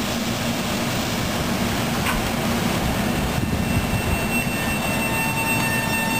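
A commuter train at a station platform, running with a steady rumble and a low hum. Past the middle, a high metallic squeal of train wheels on the rails sets in and holds, several pitches at once.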